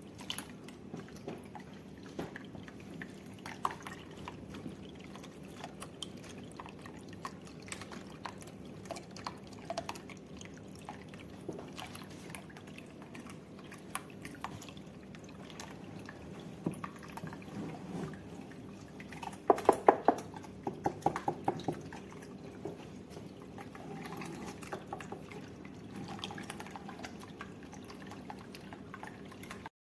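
Small tabletop rockery fountain running: water trickling and dripping steadily over the stones. About twenty seconds in, a short run of louder sharp clicks stands out over the trickle.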